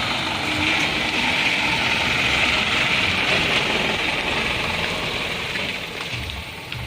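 Isuzu Elf dump truck's diesel engine running under a steady rushing hiss, which eases off near the end.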